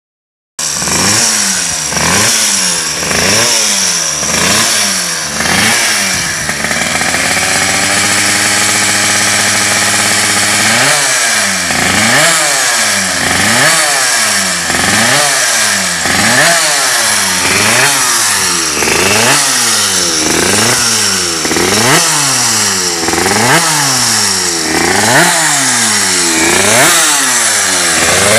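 Rotax 125 two-stroke racing motorcycle engine being revved by hand while stationary. The throttle is blipped over and over, each rev rising and falling in under a second. From about seven to eleven seconds it is held at a steady high rev, and then the quick blipping starts again.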